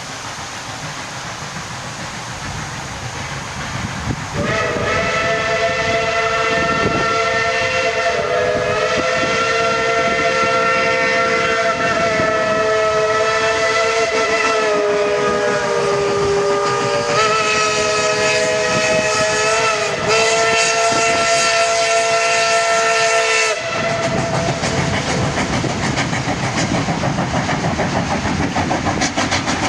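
Steam locomotive No. 12's chime whistle sounding a long chord of several notes for nearly twenty seconds, starting about four seconds in and shifting slightly a few times. After it cuts off, the train's running noise goes on.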